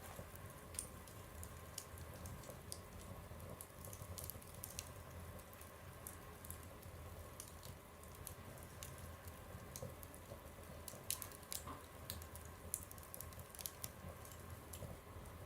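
Fire burning in a stove, crackling with irregular small pops over a low steady rumble, and a few louder snaps a little past the middle.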